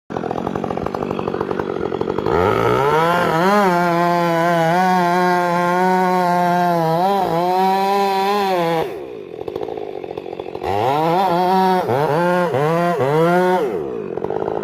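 Two-stroke chainsaw revving up about two seconds in and held at full throttle for several seconds while cutting into a white oak spar. It drops back to idle briefly, then revs in several short bursts before idling again near the end.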